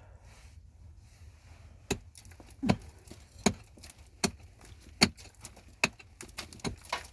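Sharp, evenly spaced blows, about one every 0.8 seconds, starting about two seconds in.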